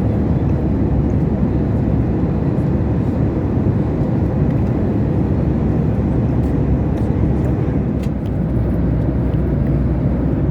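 Steady cabin noise of a Boeing 737 MAX 8 in flight: a constant deep rush of airflow and engine sound, with a few faint clicks.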